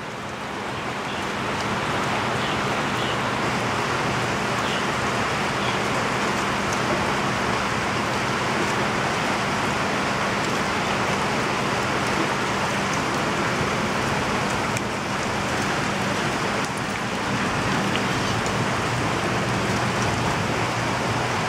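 Heavy rain pouring down steadily in a dense hiss, growing louder over the first couple of seconds, with a faint low hum underneath.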